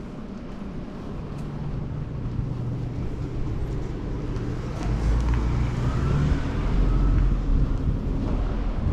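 City road traffic with wind rumbling on the microphone, a vehicle engine hum running underneath and growing louder toward the end.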